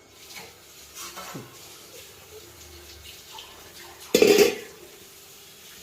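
Metal cookware clattering: utensils knocking and scraping against pots and pans, with a few light knocks about a second in and one loud clank about four seconds in.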